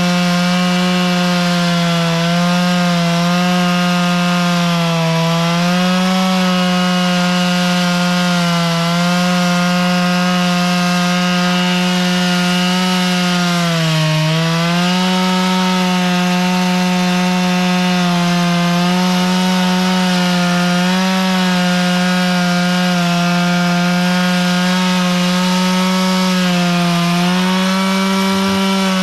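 Chainsaw running flat out while cutting lengthwise through a log, as in chainsaw milling. The engine holds a steady high pitch and sags briefly under load several times, most deeply about halfway through.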